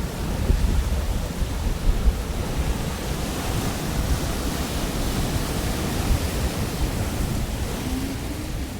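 Pacific Ocean surf washing on the shore, a steady rushing wash with heavy low rumble and some wind buffeting on the microphone.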